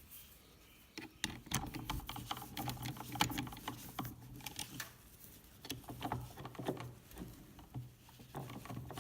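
Irregular light clicks and knocks of wooden lathe parts being handled, as the workpiece is secured and the wooden clamps and holders are slid and fitted into place.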